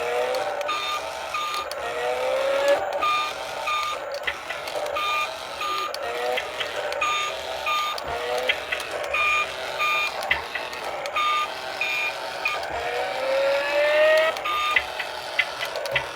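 Toy remote-control car with small electric motors whining, rising in pitch as it speeds up, mixed with short electronic beeps repeated in pairs and scattered clicks.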